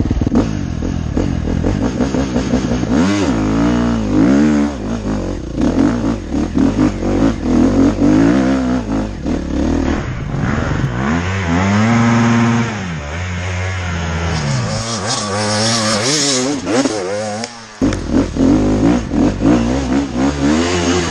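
Off-road motorcycle engine revving hard under load, its pitch rising and falling over and over as the throttle is worked, with a short drop in sound about three-quarters of the way through.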